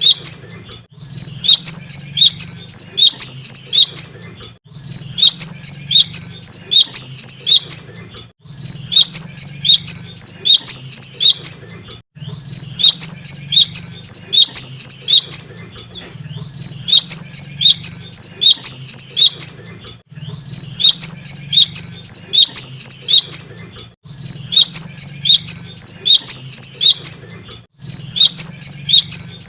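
Cinereous tit (gelatik batu) singing vigorously in repeated bouts. Each bout is about three seconds of rapid, high chirping notes, followed by a brief pause, and the bouts come back roughly every four seconds. A low steady hum runs underneath.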